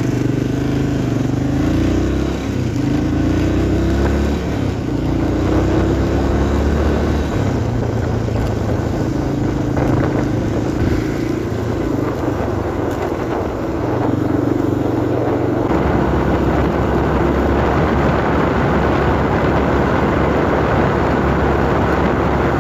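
1990 Yamaha XT350's single-cylinder four-stroke engine running under way. Its pitch rises and falls several times in the first few seconds, then holds steadier, with more rushing noise from about two-thirds of the way in.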